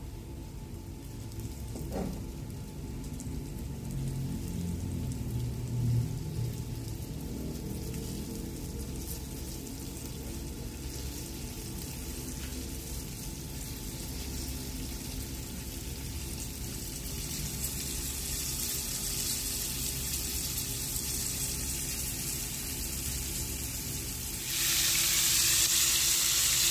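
Flour-coated chicken skewers sizzling as they fry in shallow hot oil in a frying pan. The sizzle builds slowly and becomes much louder about three seconds before the end.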